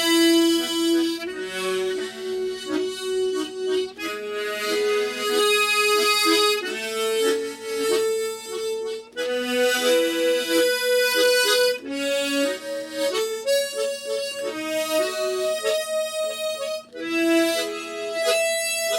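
Harmonica playing a Slow GoGo rhythm exercise on a rising scale: each step opens with an octave-and-fifth chord, followed by quicker fifth-bass and third-bass notes, in half notes.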